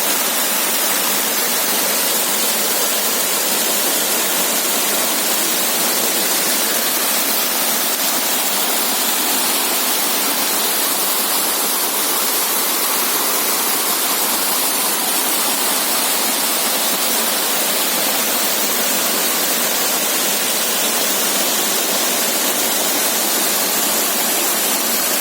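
Mountain waterfall rushing: a loud, steady rush of falling water that holds unchanged throughout.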